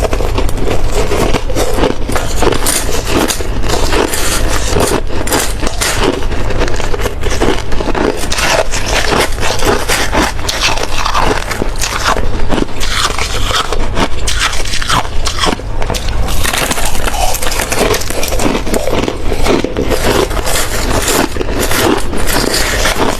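Close-miked chewing and crunching of hard ice, a continuous dense run of crackling crunches.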